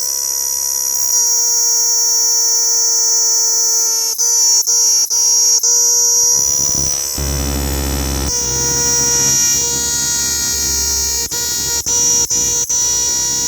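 A cicada singing: a loud, steady, high-pitched buzzing drone. It breaks off for an instant four times in quick succession about four seconds in, and again four times near the end. A low hum sits under it from about halfway through.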